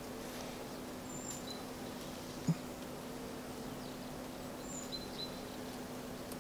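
Quiet outdoor garden ambience: faint short bird chirps now and then over a steady low hum, with a single soft knock about two and a half seconds in.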